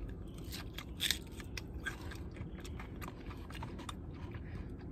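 Close-up chewing and crunching of crispy fried food, a string of short crackles with one sharper crunch about a second in.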